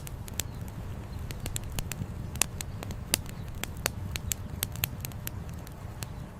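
Wood campfire crackling, with many irregular sharp pops and snaps, over a steady low rush of flowing river water.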